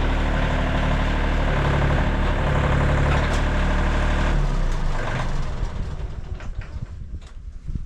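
Portable band sawmill's engine running steadily, then cutting out about four and a half seconds in. Scattered knocks and scrapes follow.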